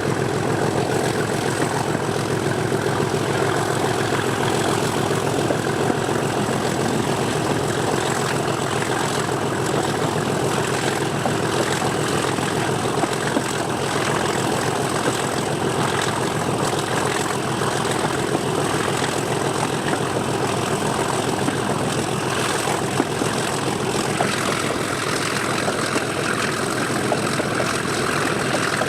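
English Electric 12CSVT diesel engine of Class 37 locomotive 37109 running steadily with an even, fast pulse, heard from the train behind the locomotive.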